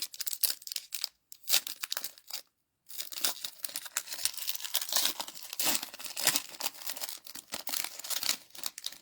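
Trading card booster pack wrapper being torn open and crinkled by hand: a burst of crackling, a short break about two and a half seconds in, then steady crinkling.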